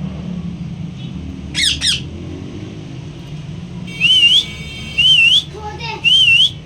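Bird giving a quick double squawk, then whistling the same short wavy note three times, about once a second, over a steady low hum.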